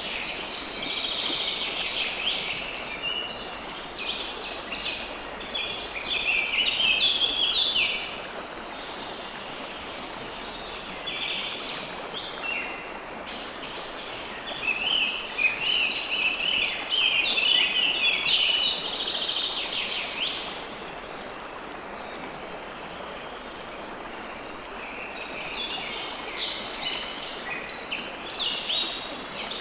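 River water flowing steadily, with birds chirping over it in three spells of busy song and short pauses between them.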